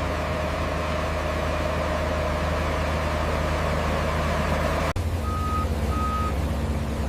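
Heavy construction machine's engine running steadily. After an abrupt cut about five seconds in, a reversing alarm sounds two short beeps over the engine.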